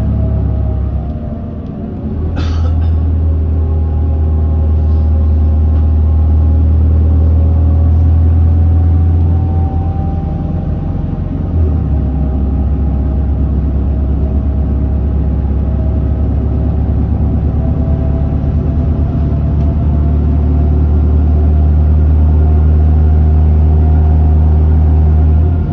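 Hino Blue Ribbon city bus under way, heard from inside the cabin: a steady low engine drone with whining tones that slowly rise and fall as the bus changes speed. A short sharp click comes about two and a half seconds in.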